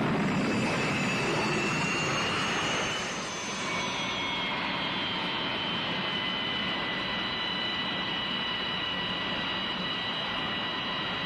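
Jet aircraft engines running: a steady rush with high whining tones that drift slowly in pitch.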